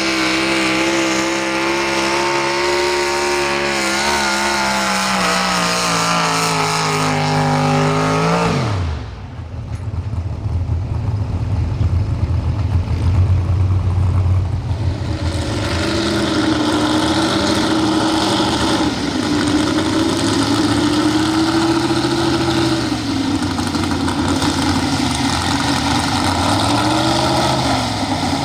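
A pro stock 4x4 pulling truck's engine runs at high revs, its pitch sagging slowly as it pulls, then drops away sharply about eight or nine seconds in. A low rumble follows, and from about halfway an engine runs again at lower revs, its pitch wavering up and down.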